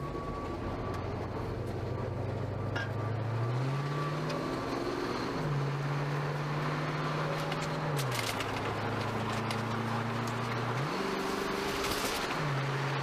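Car engine and road noise heard from inside the cabin while driving. The engine note holds steady, then rises and falls back several times as the revs change.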